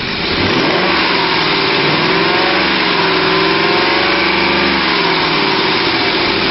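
The 2003 Ford F-150's 5.4 liter V8 engine running steadily, its speed rising a little and easing back through the middle.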